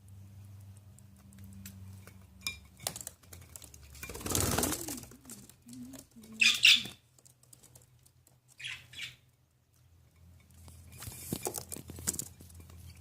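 Budgie bathing: bursts of fluttering wings and splashing water, with two short, sharp squawks about six and a half and nine seconds in, the first the loudest sound here. A low steady hum runs underneath.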